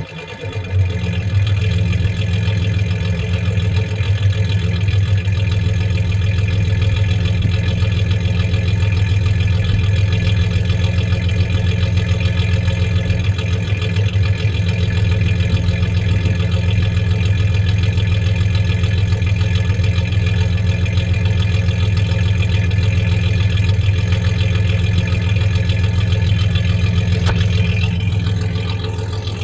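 1993 Ford Ranger's 3.0 V6 idling steadily, running with a misfire that the owner is trying to trace to one cylinder.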